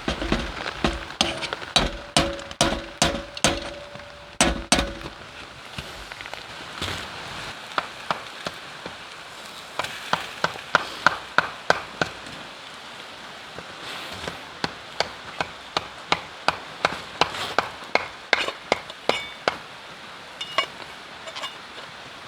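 Series of sharp knocks and taps in quick runs, several a second, with a brief ringing tone during the first few seconds.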